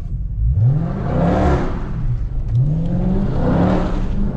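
Dodge Scat Pack's 6.4-litre HEMI V8 pulling hard under acceleration, heard through open windows; its pitch climbs and drops back about three times.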